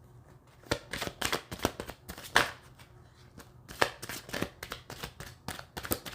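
A tarot deck being shuffled and handled by hand: a run of quick, irregular card snaps and swishes, pausing briefly about halfway through.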